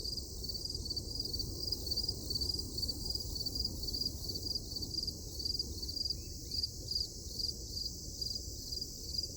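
Insects chirping in a steady rhythm of short high pulses, about two a second, over a continuous low rumbling noise.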